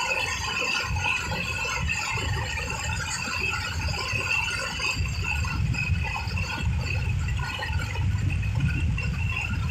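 Tractor running on the move: a steady low rumble with high, shimmering tones above it.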